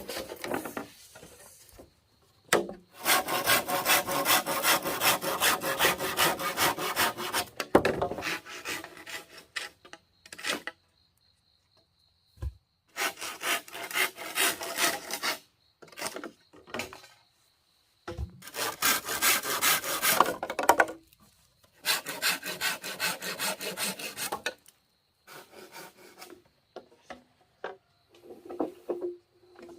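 A saw cutting through wood in four spells of rapid back-and-forth strokes, each a few seconds long, with short pauses between them.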